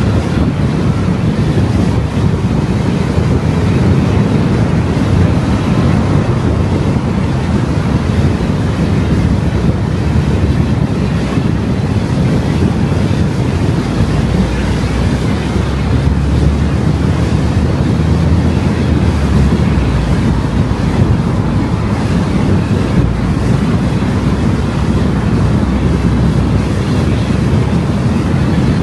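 Steady rumble of road and wind noise from a car driving along a road, loudest in the low range, with no distinct events.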